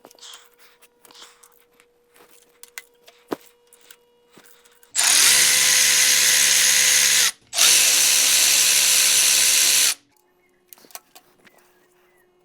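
Handheld power tool, a drill-type driver, running at a steady speed in two bursts of a little over two seconds each with a brief stop between them, spinning the connecting-rod nuts off the engine. Light clicks of tool and socket handling come before the bursts.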